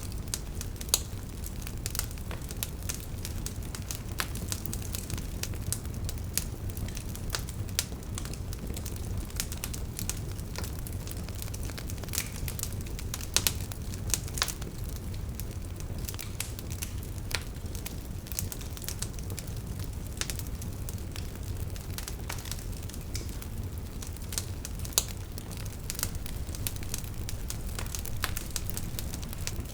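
Wood fire burning, with steady low rumble of the flames and frequent irregular sharp crackles and pops from the logs, a few louder snaps among them.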